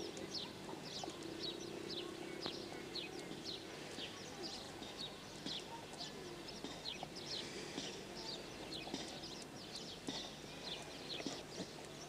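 Small birds chirping continually, short high chirps a few times a second, with a faint low hum in the first second or so.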